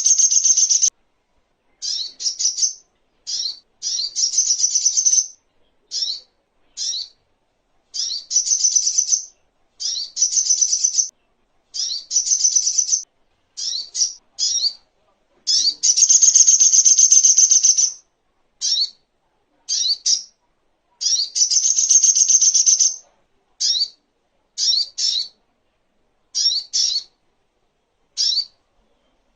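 Brown-throated sunbird (sogok ontong) singing: bursts of rapid, high-pitched chirping notes, some brief and some running on for a second or two, repeated with short pauses between them.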